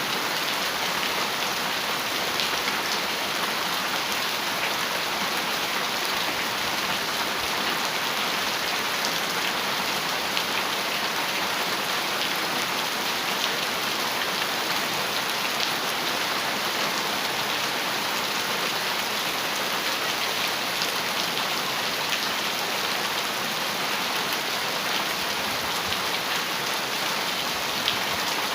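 Heavy rain falling steadily on a metal roof, an even hiss with scattered sharper ticks of individual drops.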